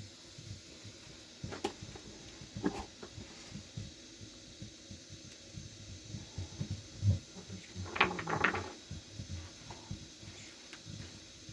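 Scattered knocks and clicks of objects being handled, with a brief cluster of rattling clicks about eight seconds in and soft low thuds between.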